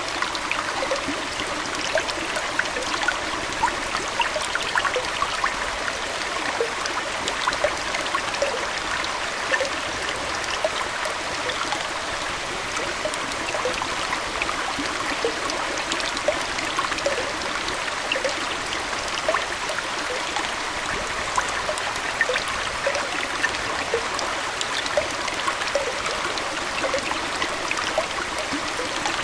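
Aquarium water trickling and gurgling steadily, with many small bubbling plinks scattered throughout.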